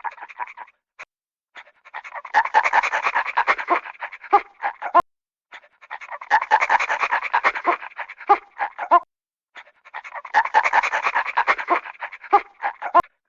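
Dog panting rapidly, in three bursts of about three seconds each with short pauses between them.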